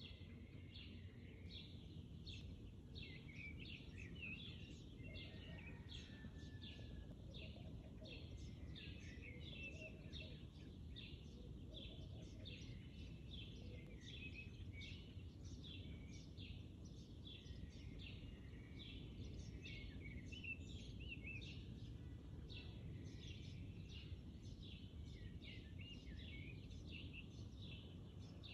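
Faint birds chirping: many short calls, a few a second, over a low steady background rumble.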